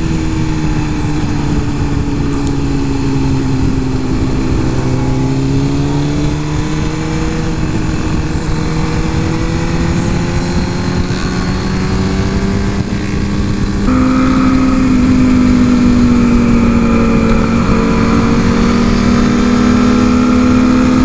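Superbike-spec Suzuki GSX-R 1000 inline-four running under way at fairly steady revs, its pitch dipping and rising gently, with wind rushing over the microphone. About fourteen seconds in it gets louder and a stronger tone comes in as the throttle opens further.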